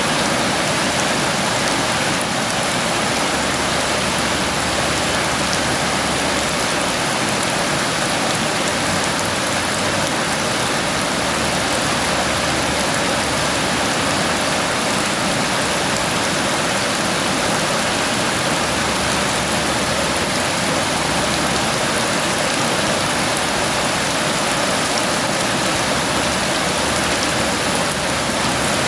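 Heavy rain falling steadily, an even, unbroken hiss of downpour with no distinct drops or thunderclaps standing out.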